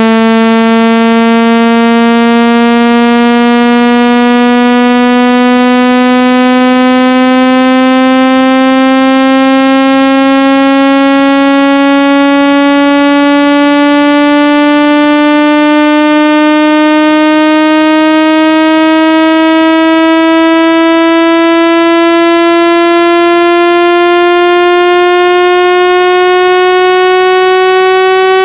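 Synthesized buzzing tone, rich in overtones, gliding slowly and steadily upward in pitch at a constant loud level: a speaker-cleaning sound played through a phone's speaker to shake out water and dust.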